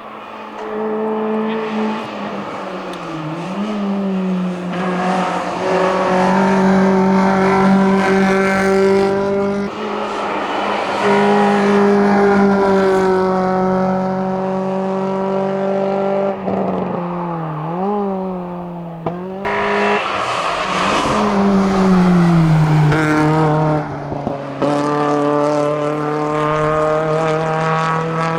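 Kia Picanto hill-climb car's engine held at high revs under full throttle. The pitch dips and climbs again at several gear changes, about three seconds in and twice more in the second half.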